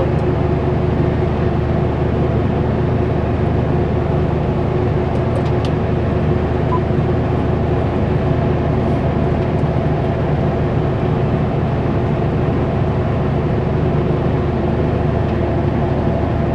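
Kenworth W900L semi truck's diesel engine running steadily at highway speed, heard inside the cab with road noise, a constant drone with a steady hum.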